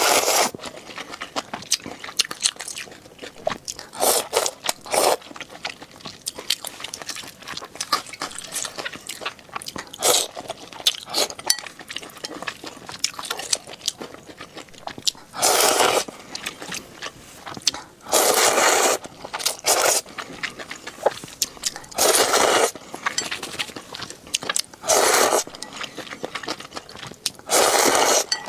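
A person eating close to the microphone: steady chewing with small wet clicks, broken every few seconds by a louder bite or mouthful, about nine of them.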